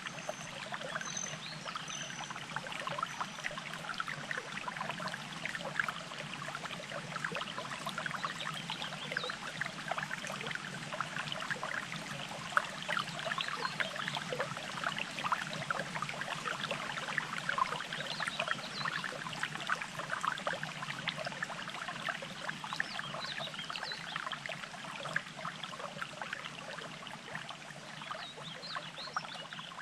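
Shallow water burbling and trickling steadily, a small stream or flow running over rocks, with a few faint high chirps near the start.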